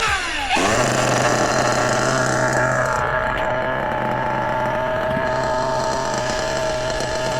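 Small glow-fuel engine of a 1/8-scale RC buggy, an RC Mix21, running. Its pitch drops quickly in the first half second, then it holds a steady, even drone as if idling.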